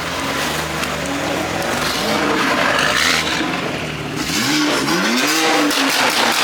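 Sports car engine running, then revved hard about four seconds in, its pitch sweeping up twice in quick succession; really loud.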